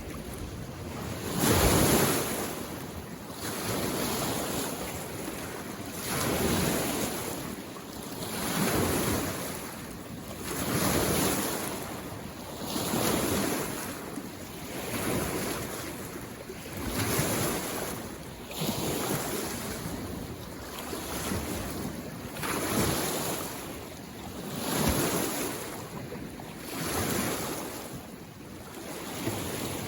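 Small mountain-lake waves washing in, one swell of water about every two seconds.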